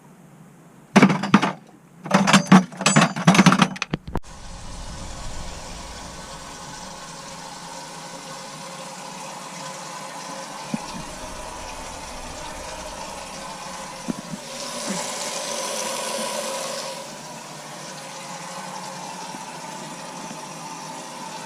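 Water running steadily, after a few loud short bursts in the first seconds; the flow swells briefly in the middle.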